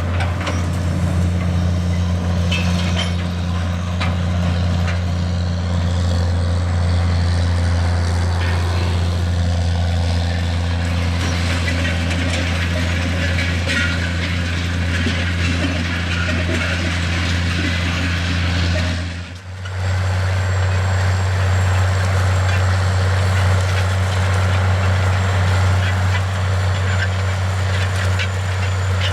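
John Deere 9420's 12.5-litre diesel engine running steadily under load while pulling a vertical tillage disk, a constant low drone with a wash of noise above it. The sound drops out briefly about two-thirds of the way through, then the same steady drone carries on.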